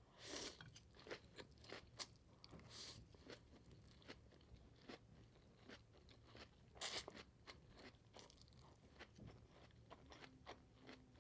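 Faint, close-miked chewing of chicken lo mein: soft wet clicks and crunches, with a few louder bursts near the start, about three seconds in and about seven seconds in.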